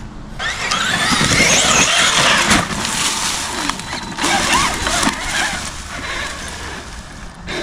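Traxxas Xmaxx electric RC monster truck driving hard, its motor whining and its tyres churning the ground. It starts about half a second in and cuts off suddenly near the end.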